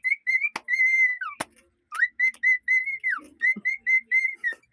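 Cockatiel whistling a tune: a run of short, clear notes, briefly pausing about one and a half seconds in, with a couple of sharp clicks.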